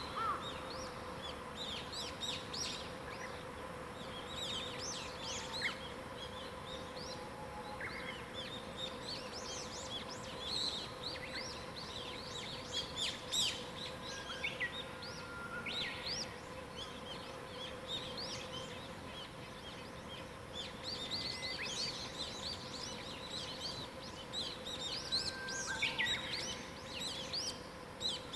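Several small songbirds chirping and singing at once in a dawn chorus, with short, quick notes overlapping throughout and a couple of clear, held whistles. A faint steady hum sits underneath.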